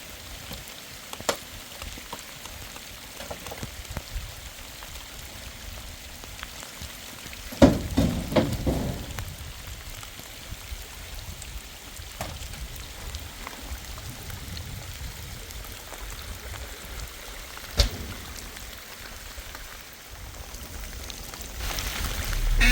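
Steady rain falling, with scattered sharp drop clicks. A cluster of louder knocks comes about eight seconds in and a single sharp click near the end, and a low rumble swells up in the last second.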